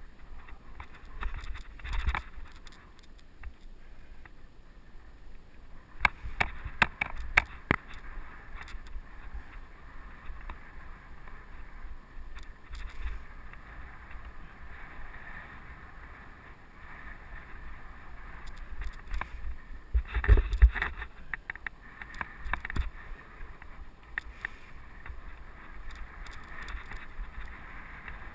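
Giant mountain bike rolling along a dirt trail: a steady rush of tyres and wind on the microphone, broken by clusters of rattling knocks from the bike over bumps about two seconds in, around six to seven seconds, and loudest around twenty seconds.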